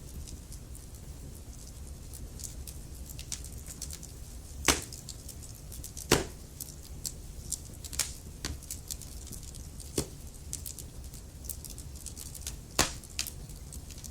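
Burning logs crackling in a fireplace: a low steady rumble with a run of small crackles and five louder pops, the loudest about six seconds in.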